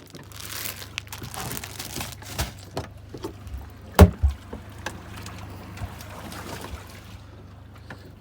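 Handling noises aboard a small fishing boat: a rush of hissy noise, then scattered clicks and knocks with one sharp knock about four seconds in, over the steady low hum of the boat's engine.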